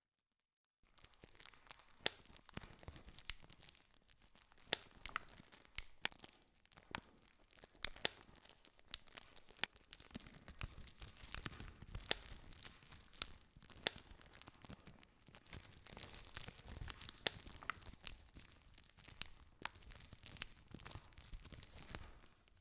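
Wood campfire crackling: many sharp pops and snaps at irregular intervals over a steady hiss of burning. It starts abruptly about a second in, after a moment of near silence, and cuts off just before the end.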